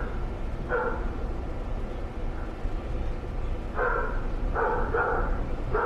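A dog barking in short single barks: one, a pause of about three seconds, then a quicker run of three or four, over a steady low hum.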